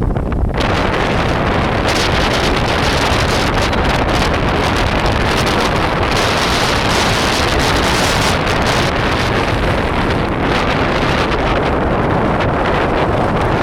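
Very high wind blowing hard and buffeting the microphone: a loud, steady rush of noise with heavy low rumble, swelling in gusts.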